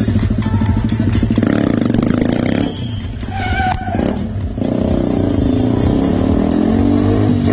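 KTM single-cylinder motorcycle engine running and revving, its pitch rising and falling in the second half, with music playing at the same time.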